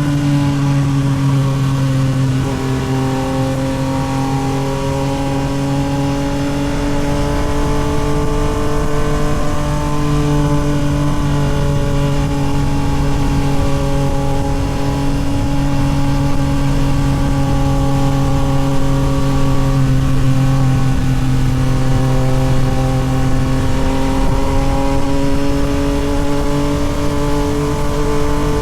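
Yamaha MT-09 SP's 890 cc three-cylinder engine through a Toce full exhaust, cruising at nearly steady revs, its pitch sagging a little early on and creeping back up later, over a low wind rush.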